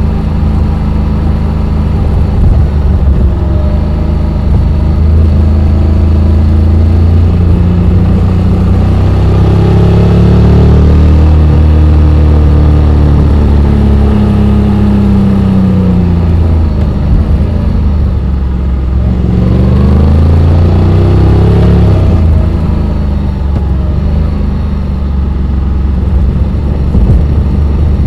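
Honda X-ADV 750's parallel-twin engine running under way, its pitch climbing about a third of the way in, easing back down, then climbing briefly again before settling.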